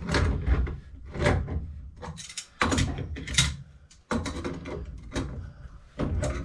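Union nuts on boiler water piping being tightened by hand with a tool: a series of irregular metal knocks and scrapes on the fittings.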